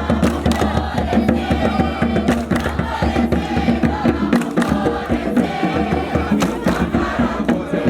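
A group of voices singing a chant together over a steady beat of percussion strokes.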